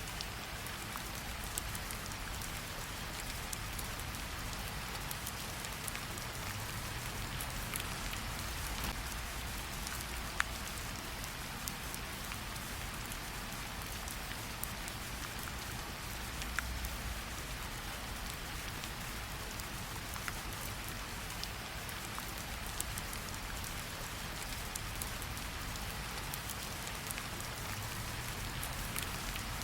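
Steady rainfall, an even hiss of many drops, with occasional sharper single drops hitting close by.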